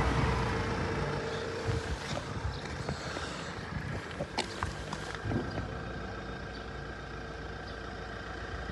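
Opel 2.0 CDTI A20DTH four-cylinder diesel engine running on test, the revs falling back to a steady idle over the first couple of seconds, with scattered light clicks.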